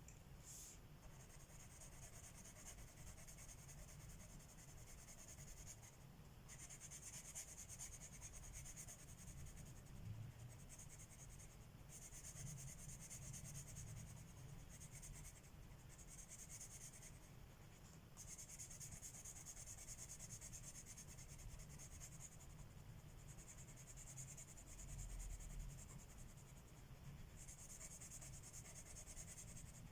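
Coloured pencil shading on paper: a soft, scratchy hiss that comes in stretches of one to four seconds with short pauses between them.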